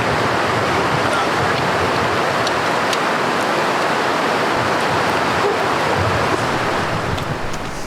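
A mountain river rushing close by, a loud, steady wash of water that eases off slightly near the end.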